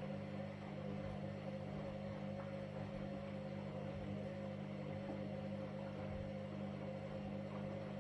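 Washing machine running with a steady, even mechanical hum.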